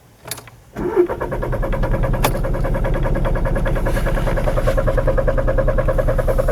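VW Golf 7 1.6 TDI four-cylinder diesel turning over on the starter motor. It starts suddenly about a second in and keeps up a steady rhythmic pulsing without firing: a crank-no-start, which the owner puts down to a faulty fuel pump control module (fault code P025A).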